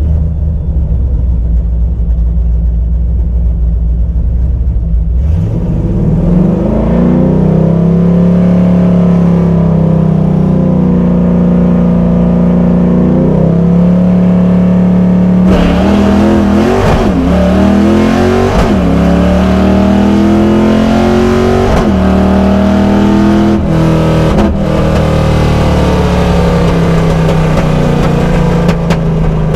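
Heard from inside the cabin, a 1989 Mustang GT's 5.0 V8 runs with a low rumble, then about five seconds in goes to full throttle and revs hard, its pitch climbing and dropping several times. Its raspy, rough exhaust note fits the garbage-truck sound that an exhaust leak gives.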